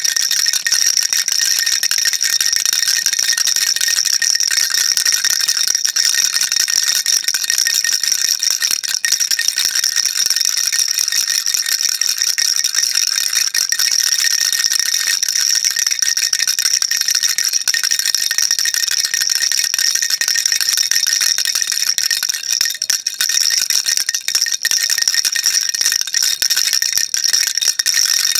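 Baby rattle shaken nonstop: a dense, even stream of fast, bright clicks from the beads inside.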